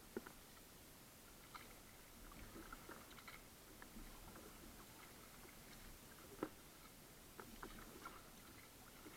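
Faint water sounds of a kayak being paddled: small drips and splashes from the paddle, with two sharper knocks, one just after the start and one about six seconds in.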